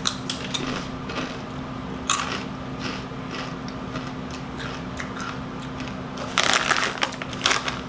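Biting into and chewing crunchy rolled tortilla chips (Doritos Dinamita). There is one loud crunch about two seconds in and a run of heavy crunching near the end.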